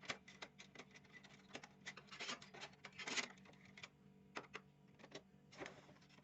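Faint clicks and scraping of plastic parts being handled as ribbon cables are worked loose from their connectors inside a partly dismantled Epson printer, with a couple of longer scrapes about two and three seconds in.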